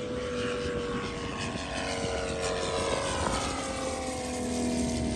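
Propeller engine of a radio-controlled model airplane running, its pitch slowly falling, with a second engine tone joining about a second and a half in.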